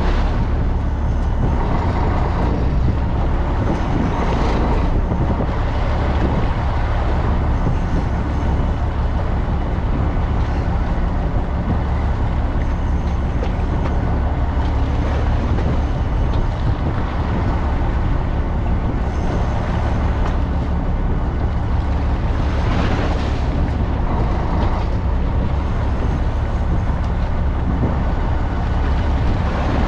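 Fishing boat's engine running with a steady low drone, with a rushing noise of wind and water that swells now and then.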